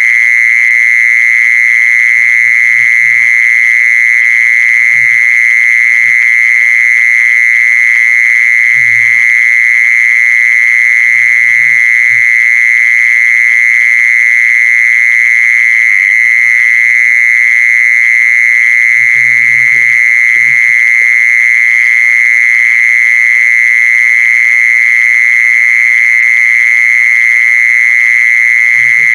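A singing insect's continuous high-pitched trill, steady and unbroken, with faint low knocks now and then underneath.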